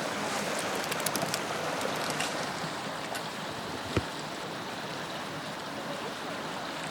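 Steady rush of water at the shore, with a few faint clicks about a second in and a single sharp knock about four seconds in.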